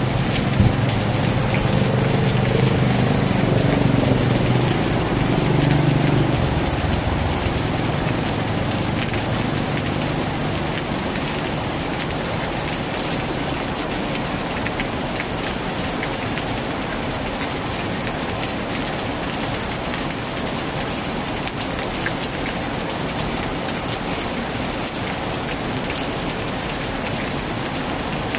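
Heavy rain falling steadily on a tin roof, an even dense hiss. During the first six seconds or so a low engine-like hum sits under the rain and then fades away.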